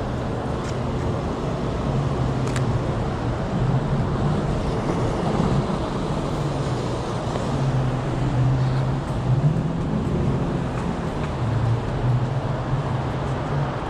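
City street traffic: a steady rumble of passing cars with a low engine hum underneath.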